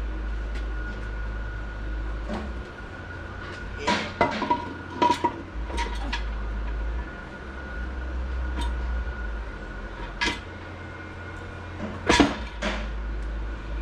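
Steel automatic-transmission parts clinking and clanking against each other and the case as a part is lowered into place: scattered sharp metallic knocks, a few ringing briefly, in a cluster a few seconds in and a couple more near the end.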